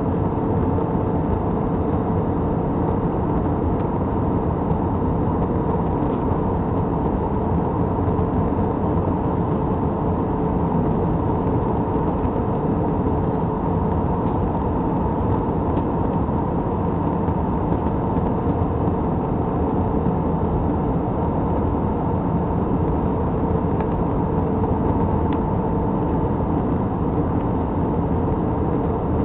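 Steady drone of an airliner in flight, heard from inside the passenger cabin: an even rumble with a constant hum running through it.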